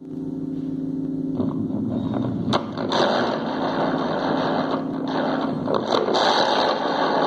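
Microwave oven running: a steady electrical hum with many overtones, which about a second and a half in turns into a harsh, noisy buzz over the hum, with a few sharp clicks.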